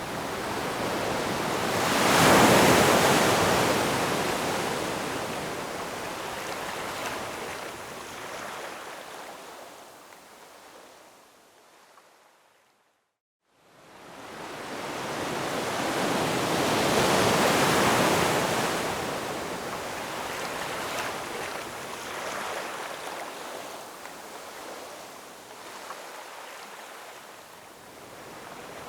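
Ocean surf: a wave breaks and washes out, fading to a moment of silence about halfway through, then a second wave swells up, breaks and slowly recedes.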